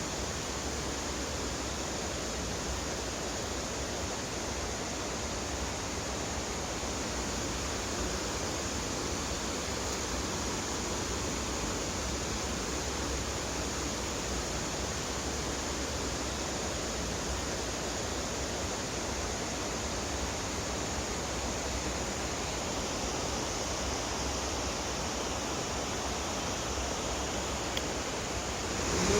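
River water rushing over rocks in a cascade, a steady, even noise.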